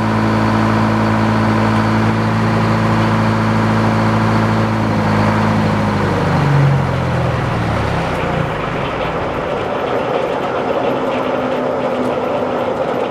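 Engine running steadily, then slowing with a falling pitch and stopping about seven seconds in; a rougher, noisier mechanical sound carries on after it.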